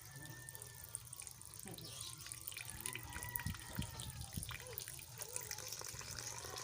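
Lake water splashing and trickling in small irregular splashes and drips.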